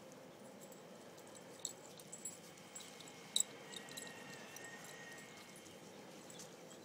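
Dogs playing, heard faintly: a few short, sharp clicks over a quiet background hiss, the loudest about halfway through.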